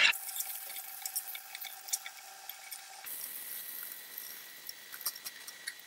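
Jackfruit pieces frying in mustard oil in an iron kadhai: a faint sizzle with scattered crackles, and the scrape of a metal spatula stirring them.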